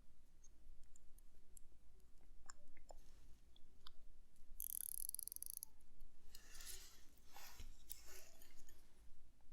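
Light clicks and taps of watchmaker's tools and small parts during reassembly of a watch movement. A brief high-pitched whine comes about five seconds in, followed by a couple of seconds of soft hissing.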